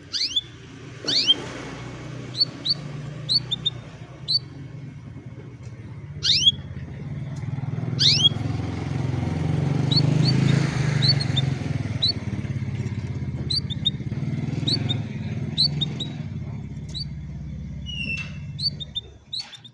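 A motor vehicle engine hums, growing louder to its peak about halfway through, then fading and stopping about a second before the end. Over it a canary gives short, sharp chirps, a few at a time, throughout.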